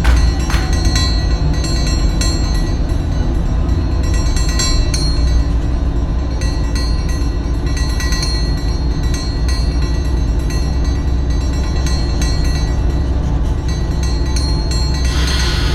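Freight train running: a steady low rumble with some steady tones above it.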